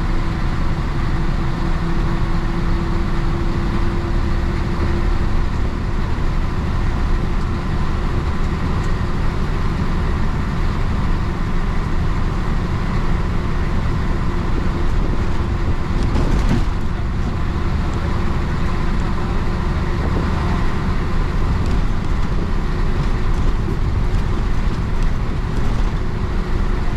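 1966 Isuzu BXD30 bonnet bus's DA640 six-cylinder diesel engine running steadily under way, with road noise. There is one brief knock partway through.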